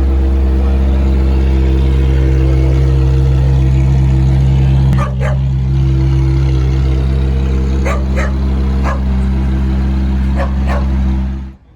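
A car engine idling steadily with an unchanging low hum, cutting off abruptly near the end. A few short sharp sounds come over it in the second half.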